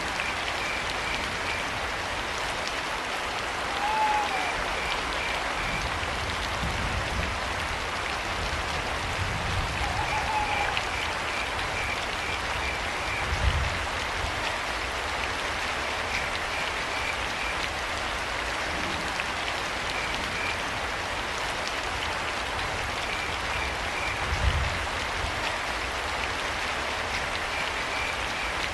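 Steady rain with crickets chirping in short pulsing trains, and a brief owl call about four seconds in and again about ten seconds in. Two low thuds, about halfway through and near the end, are the loudest moments.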